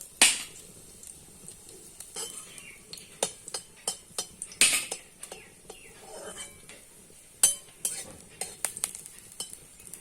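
Metal spatula knocking and scraping against a kadai while stirring whole garlic and dried red chillies frying in oil: irregular clicks and taps, a few louder knocks.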